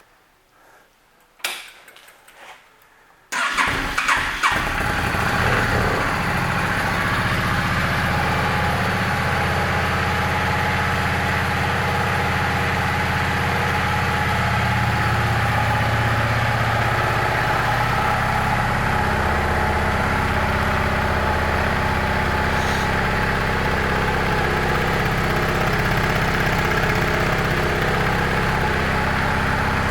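Yamaha V-Star 650 Classic's air-cooled V-twin engine is started after a short click about a second and a half in. It catches about three seconds in and settles into a steady idle.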